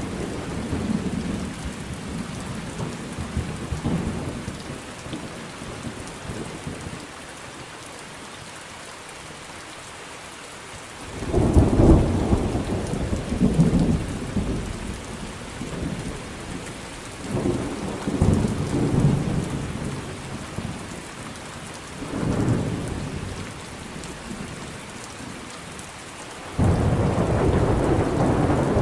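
Steady rain with rolling thunder: low rumbles swell and fade again and again, with a sudden loud crack of thunder about eleven seconds in and another near the end.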